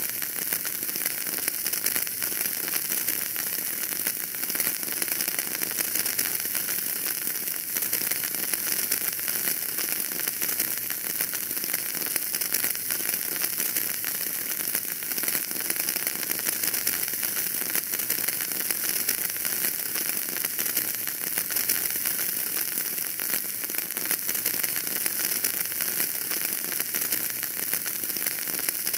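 Wood fire burning in a fireplace, a steady dense crackle and hiss with many small pops.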